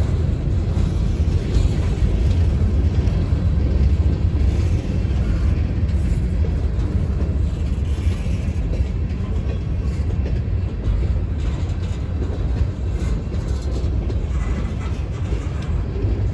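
Freight train's covered hopper cars rolling past close by: a steady low rumble of steel wheels on the rails.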